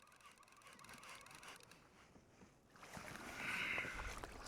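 Faint water sounds around a kayak, with a louder hissing rush of water about three seconds in.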